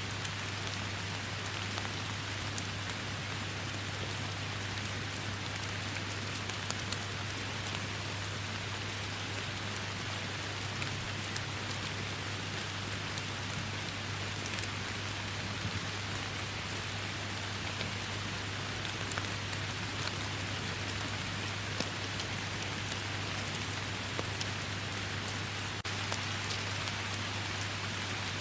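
Steady rain falling in a forest, a constant hiss with many individual drops pattering and ticking on surfaces. A steady low hum runs underneath.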